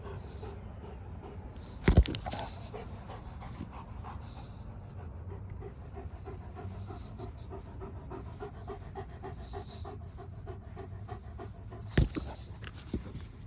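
A dog panting in quick, even breaths, with two loud thumps, one about two seconds in and one near the end.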